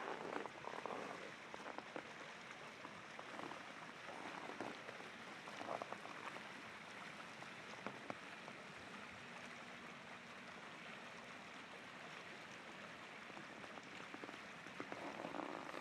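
Steady rushing of river rapids flowing past ice, with footsteps crunching in hard-frozen snow in the first few seconds and again near the end.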